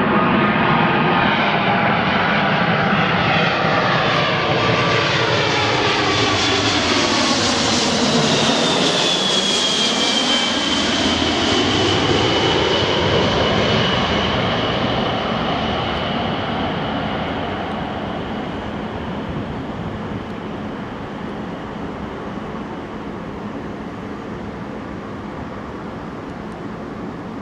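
Boeing 767-300ER's twin jet engines on landing approach passing overhead: loud jet noise with a high fan whine that drops in pitch about nine to thirteen seconds in as the aircraft goes by, then fades away.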